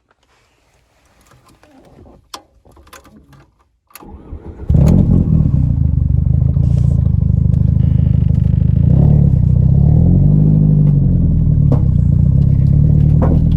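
A few faint clicks and knocks, then a car engine starts about four and a half seconds in and keeps running loudly, its pitch rising and falling once partway through.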